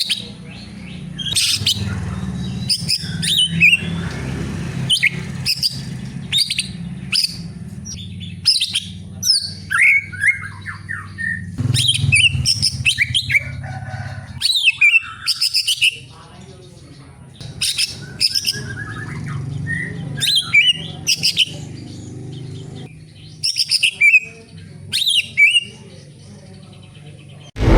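Cucak ijo (green leafbird) singing: a long string of sharp, varied chirps and whistled phrases broken by short pauses.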